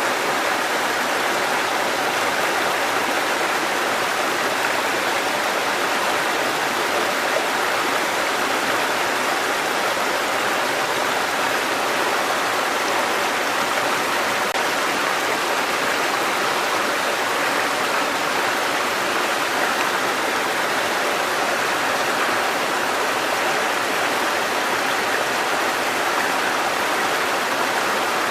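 Water cascading over rocks in a mountain stream, a steady, even rushing.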